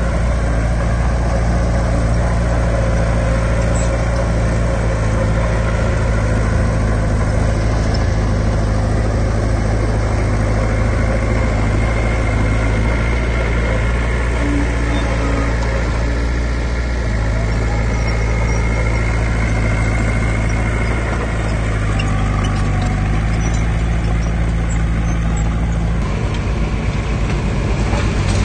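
Heavy diesel earthmoving machinery running steadily at close range, its engine note shifting a little as the load changes. A fast, even rattle comes in near the end.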